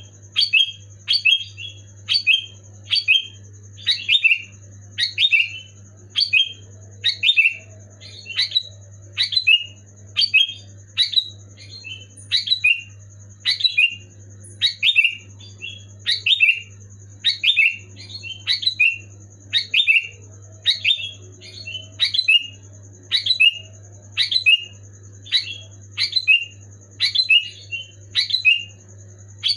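Sooty-headed bulbul (kutilang) calling over and over, a short chirpy phrase about once a second. A steady low hum and a faint steady high whine run underneath.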